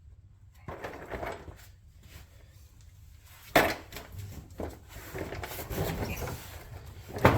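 Handling noises: rustling and clattering, with two sharp knocks about three and a half seconds apart, the second near the end.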